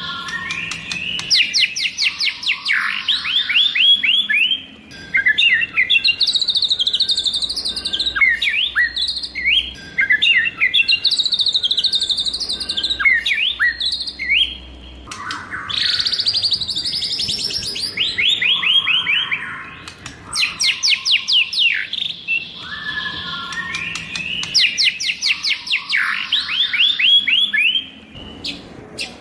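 White-rumped shama singing: long, varied phrases of rapid, fast-repeated downward-sweeping notes and whistles, separated by brief pauses.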